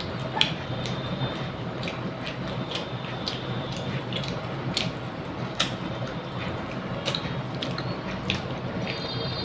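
Wet chewing and lip-smacking of a person eating rice and fried fish by hand, with sharp mouth clicks about once a second over a steady low hum.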